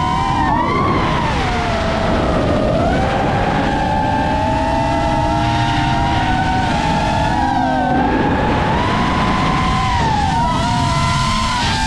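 7-inch FPV quadcopter's brushless motors and propellers whining in flight, several close pitches gliding up and down together as the throttle changes, over a steady rush of wind noise.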